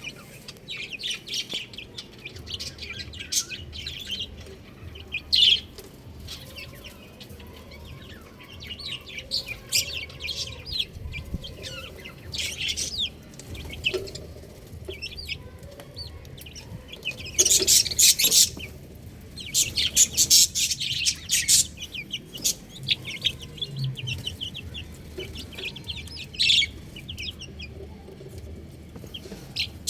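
Chicks cheeping: many short, high peeps in quick runs throughout, with two louder, denser flurries in the middle.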